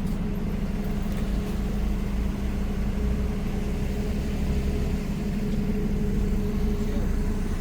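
A vehicle engine idling steadily, a constant low hum with a faint steady tone above it.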